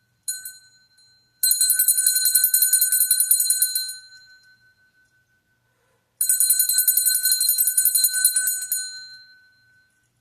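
A small hand bell rung rapidly in two runs of a few seconds each, each run fading out, with a single ring just before the first.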